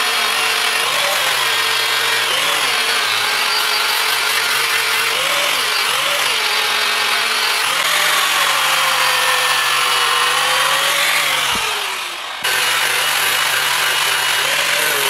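A handheld power tool running continuously at work, loud, its motor pitch wavering up and down. About twelve seconds in the pitch sags, then the sound jumps abruptly.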